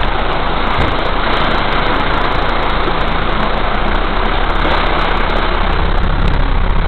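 Car engine running low under a steady, loud rush of water during a heavy downpour on a flooded road.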